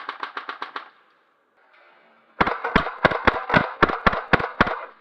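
Airsoft guns firing: a quick even burst of about eight shots at the start, then after a short pause a string of about ten louder, unevenly spaced shots close by.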